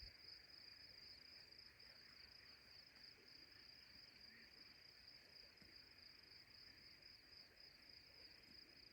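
Faint insect chorus: a steady, high-pitched trill that pulses slightly and never stops.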